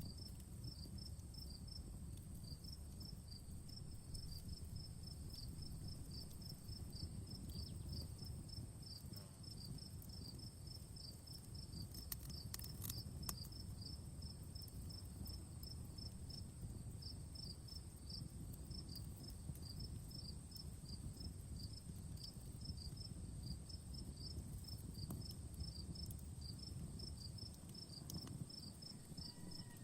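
Crickets chirping in a quick regular rhythm over a steady high insect drone, with the low rush of a campfire beneath and a few faint crackling pops about twelve seconds in.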